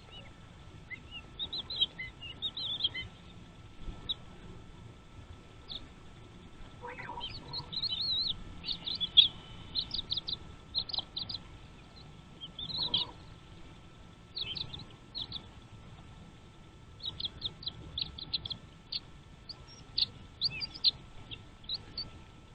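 Small birds at a nest chirping: many short, high-pitched chirps in quick clusters, with a lower, louder call about 7 seconds in and again about 13 seconds in.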